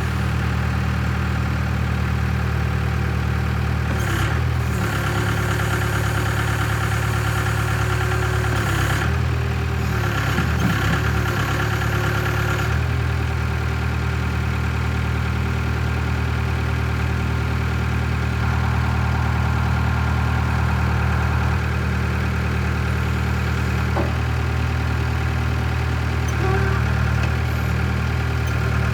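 Case 580K backhoe loader's four-cylinder diesel engine idling steadily. From about 4 to 13 seconds a higher whine rides over the engine, dipping briefly a few times, then drops away.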